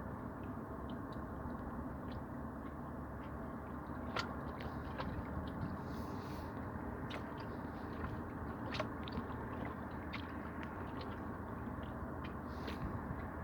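Sea waves: a steady rush of water with scattered small clicks and crackles.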